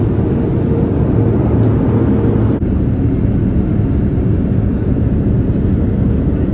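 Steady low roar of a Boeing 787-9's cabin at cruise, the drone of engines and airflow heard from a seat, with a small break about two and a half seconds in.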